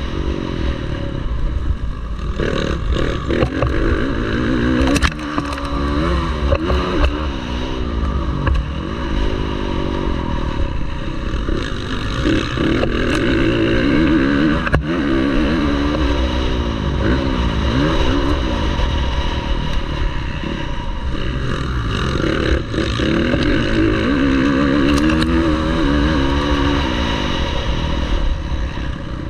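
Motocross bike engine revving hard, its pitch rising and falling again and again as it accelerates and shifts gear around the track.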